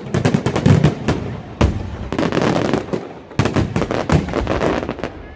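Fireworks going off in a dense, rapid run of sharp bangs and crackles, with a few louder bangs among them.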